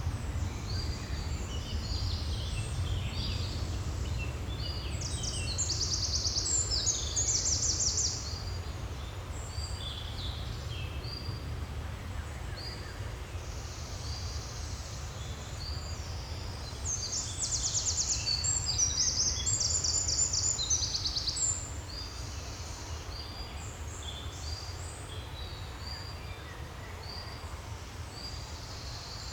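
Several songbirds singing in a forest, with short chirping phrases throughout and two louder bouts of rapid trills, over a steady low rumble.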